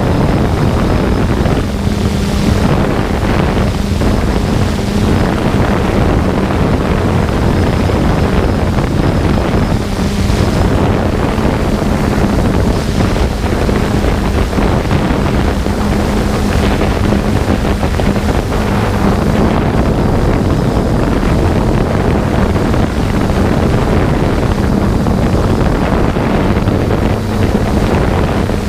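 3DR Solo quadcopter's motors and propellers running with a steady hum, heard through the drone's camera microphone with wind buffeting it.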